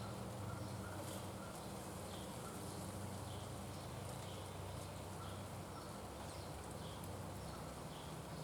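A bird calling with short repeated notes, roughly one a second, over a steady low hum and outdoor background hiss.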